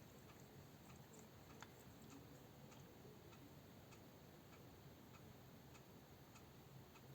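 Near silence: faint room tone with scattered faint ticks.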